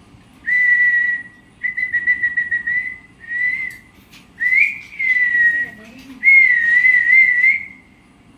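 A parrot whistling: five drawn-out whistled notes at about the same pitch, the longer ones wavering slightly.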